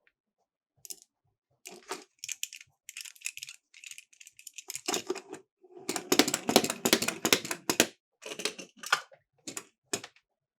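Miniature toy cars rolling and clattering down a slope: a run of rattling clicks that starts sparse, grows dense and loudest in the middle, and ends in a few separate clicks.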